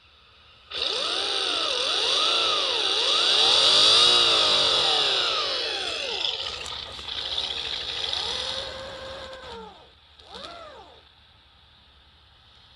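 Synthetic engine sound imitating a Subaru EJ20 flat-four with equal-length exhaust, made by a homemade optical generator (patterned spinning disc, laser and photosensor) and played through a small speaker ringing inside a can. It is revved up and down several times with a high whine over it, and ends with one short blip.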